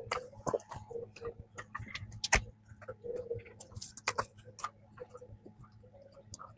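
Close-miked chewing of soft peanut cream bread: irregular wet mouth clicks and smacks, with one louder click a little past two seconds in.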